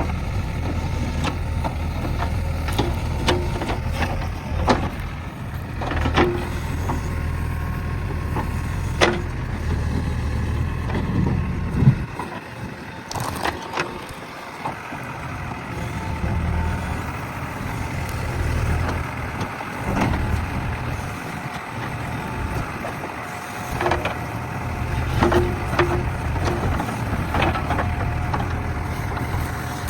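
JCB backhoe loader's diesel engine running while the machine works, with repeated sharp knocks and clanks from the bucket and arm. A loud knock comes about twelve seconds in, after which the engine's low hum thins for about ten seconds before it fills out again.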